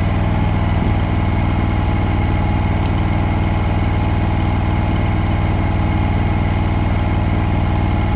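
Hobart Champion Elite engine-driven welder's engine running steadily at an even speed.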